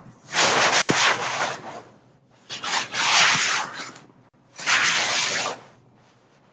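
Rasping, scraping noise in three bursts of about a second or more each, with short gaps between them.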